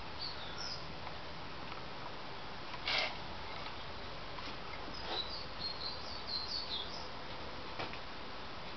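Faint short bird chirps over a steady background hiss, with a brief rustle about three seconds in and a few light clicks.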